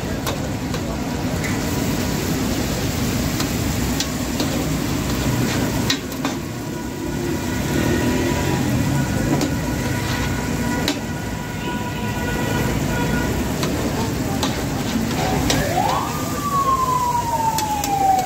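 Beef liver sizzling as it is stir-fried on a large flat griddle, with a metal spatula scraping and clicking against the griddle. Near the end a siren-like wail rises sharply and then slowly falls.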